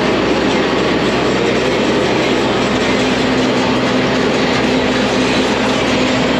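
Tour tram in motion: a steady, loud running noise of the vehicle and its wheels on the road, with a steady hum underneath.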